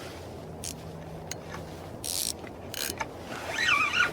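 Fishing reel being cranked to bring up a small hooked fish: a steady low gear whir with a few short high scraping hisses, then a high wavering call near the end.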